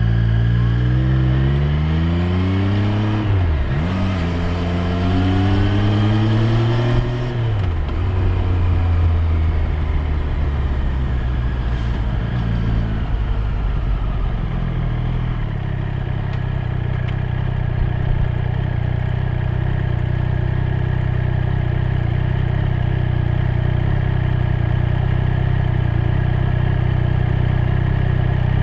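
Triumph Street Triple 765 R's three-cylinder engine accelerating, with a brief drop in revs for a gear change about four seconds in. It pulls up again, then the revs fall away around seven to eight seconds in. From about fifteen seconds the engine holds a steady note.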